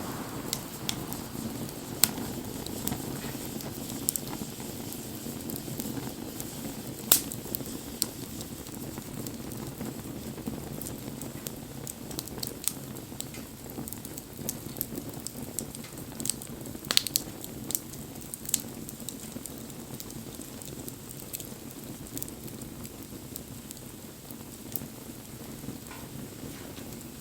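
Wood bonfire burning: a steady low rush of flame with irregular sharp crackles and pops from the burning wood, the loudest pops about seven and seventeen seconds in.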